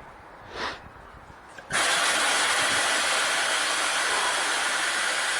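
Vehicle lift lowering the truck: a brief soft whoosh, then a sudden steady hiss that starts a little under two seconds in and keeps going.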